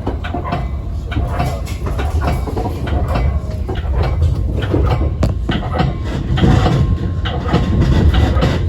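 A train rolling along the track: a steady low rumble with frequent irregular clicks and knocks of the wheels over rail joints and switches.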